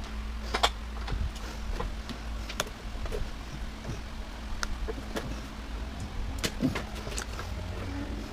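Sharp clicks and knocks of metal and plastic washer parts being handled and pried apart, about one a second, over a steady low hum.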